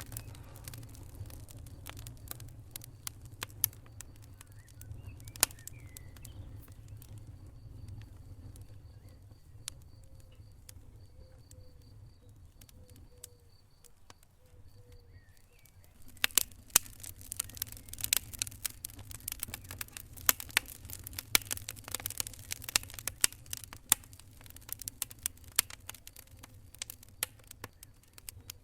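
Wood fire crackling in a fireplace: sharp pops and snaps over a low steady rumble, scattered at first and much busier from about halfway through.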